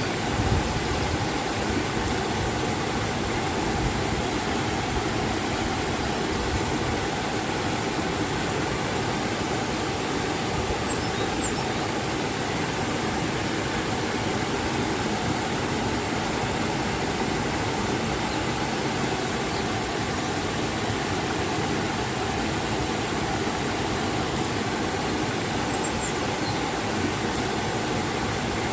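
River and waterfall rushing steadily, an even unbroken roar of water.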